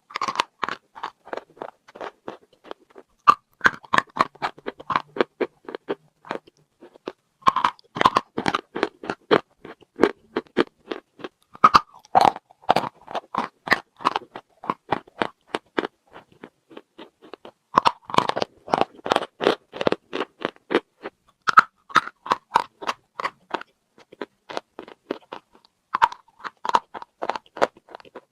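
Chalk with paste being bitten and chewed: about seven crisp bites, one every four to six seconds, each followed by a run of rapid crunching.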